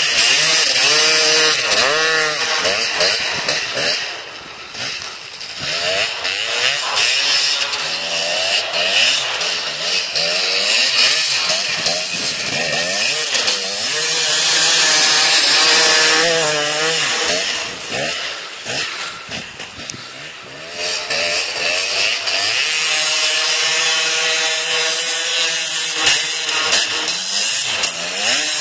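2007 KTM 250 two-stroke motocross bike engine, revved hard and backed off again and again as the rear wheel spins in snow. It is loudest about halfway through, fades twice, and holds steadier revs near the end.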